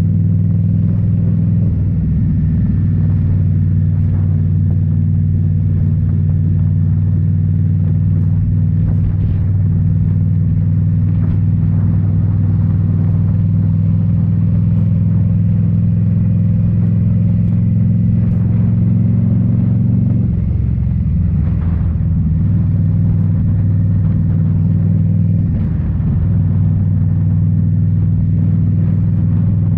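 Indian Scout Bobber's V-twin engine, fitted with Rinehart slip-on mufflers, running steadily under way. The engine note changes about two-thirds of the way through and dips briefly a few seconds later.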